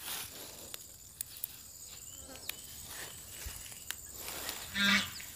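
Quiet outdoor garden ambience: soft rustling of handled vines and light footsteps, with scattered small clicks and a short buzzy sound near the end.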